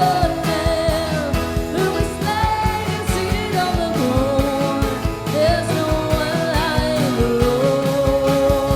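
Live worship band music: a singer holds long, wavering notes over a steady drum beat and sustained chords.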